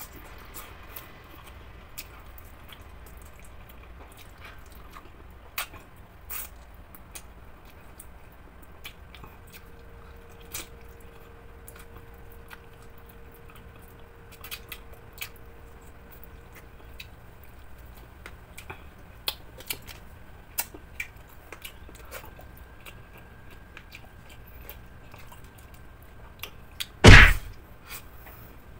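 Close-miked eating sounds of a person eating fried chicken with his hands: soft chewing and scattered small mouth clicks and smacks. One loud knock near the end.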